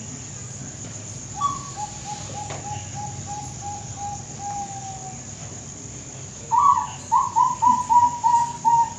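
Bangkok-type perkutut (zebra dove) cooing. About a second and a half in comes a softer phrase: a higher opening note, then a run of about ten even coos that slowly drop in pitch. Near the two-thirds mark a louder phrase follows: a higher note, then about six coos.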